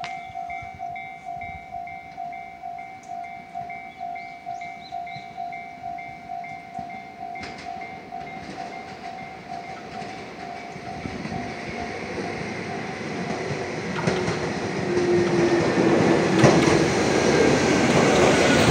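A Chichibu Railway 7000-series electric train pulls into the station, growing steadily louder over the last several seconds, with a falling whine as it slows. Before it arrives a warning bell rings in an even repeating pattern, stopping about two-thirds of the way through.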